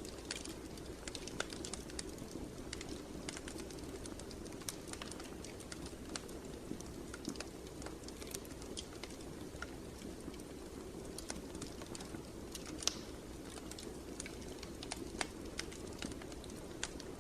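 Fire in a fireplace crackling: irregular sharp pops and snaps, one louder near the end, over a steady low rush of the flames.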